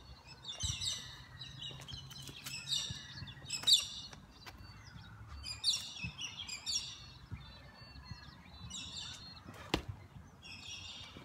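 Birds calling: short high chirps repeated about once a second, in clusters with a pause partway through. A sharp click sounds once near the end, over a faint low background hum.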